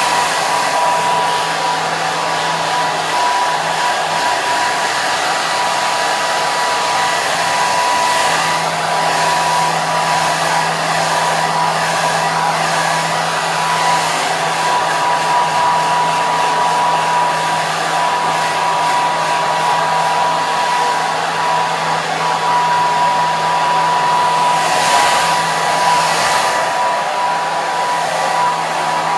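Hair dryer running steadily: a constant rush of blown air with a steady whine from its motor.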